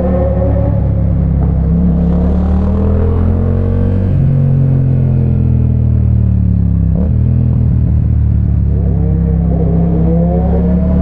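Motorcycle engine and exhaust running under way, its note easing up and down with the throttle, over wind and road noise. The note breaks briefly about seven seconds in, then rises again near the end.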